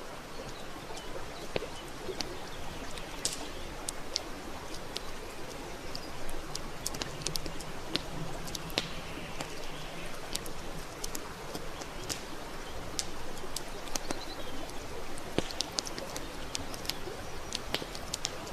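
Wood campfire burning, with a steady hiss and frequent irregular sharp crackles and pops.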